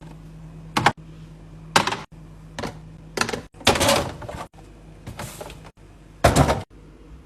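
Food containers and packages being handled and set down while a refrigerator is restocked: a string of knocks, clunks and rustles about once a second, the loudest a thunk about six seconds in, over a low steady hum. The sound breaks off abruptly several times.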